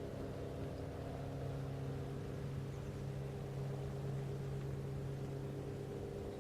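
Steady low background hum with several constant tones, like machinery or electrical hum in a room.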